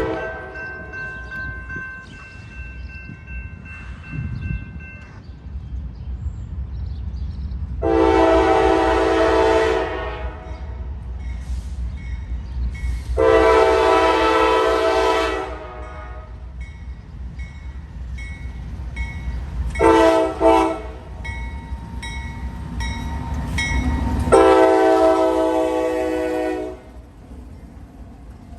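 Diesel freight locomotive's multi-note air horn sounding the grade-crossing signal: long, long, short, long. A steady low train rumble runs underneath.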